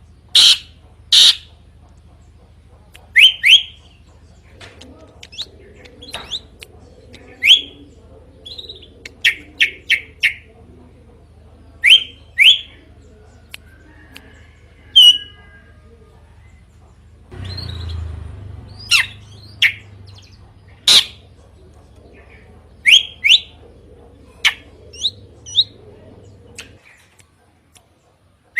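Drongo calling: loud, short, sharp notes repeated at irregular intervals, often in quick pairs or runs of three. A brief noisy rush breaks in a little past the middle.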